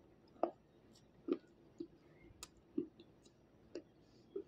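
Slate, soaked in water, being crunched between the teeth, picked up close to the mouth: a series of about eight short, sharp crunches, roughly one every half second to second.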